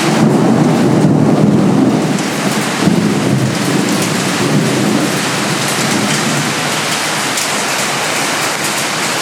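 Heavy rain pouring steadily, with thunder rumbling low for the first couple of seconds and again about three seconds in, dying away by about five seconds.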